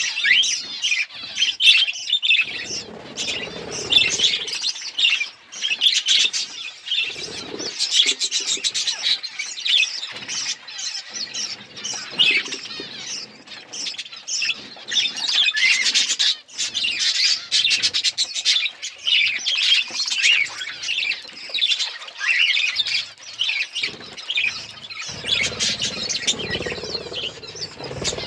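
A flock of budgerigars chattering: many short, overlapping chirps, warbles and squawks, with no break.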